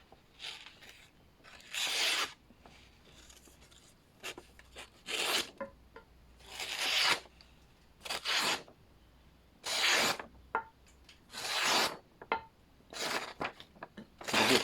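Freshly grinder-sharpened hatchet edge slicing through a sheet of paper in about nine separate short, rasping strokes. It is a sharpness test: the edge cuts, though it catches in places.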